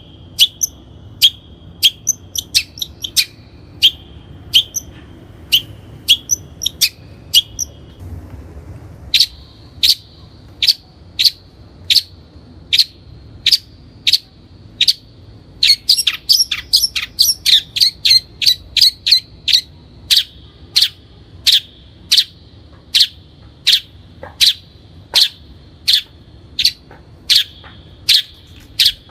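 Long-tailed shrike calling: a long run of short, sharp notes repeated one or two times a second. The calls pause briefly about eight seconds in and come faster between about 16 and 20 seconds.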